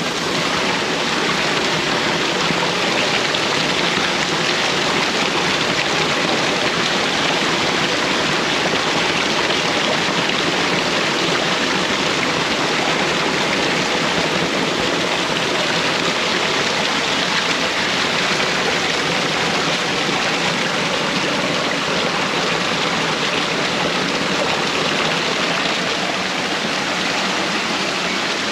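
Waterfall: a steady rush of falling water into a pool, unbroken throughout.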